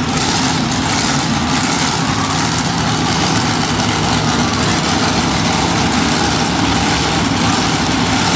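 Monster truck engine running loudly and steadily at an even speed, with no revving.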